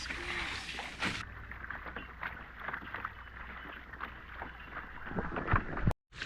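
Water lapping against a kayak hull, with scattered small knocks and clicks throughout and a few louder knocks shortly before a brief dropout at the end.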